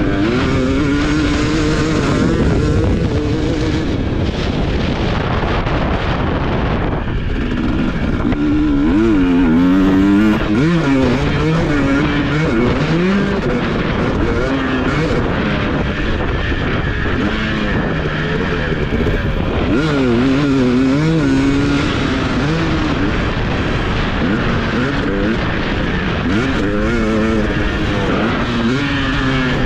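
TC250 motocross bike's engine being ridden hard, its pitch climbing and dropping again and again as the throttle is opened and shut and gears change, over a steady rush of noise.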